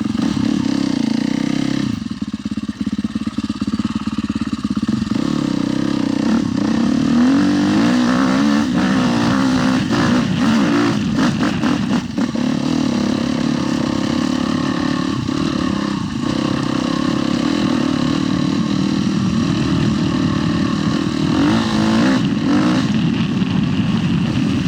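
Husqvarna TE 310 dual-sport motorcycle's single-cylinder four-stroke engine running under throttle while being ridden, holding a steady loud drone.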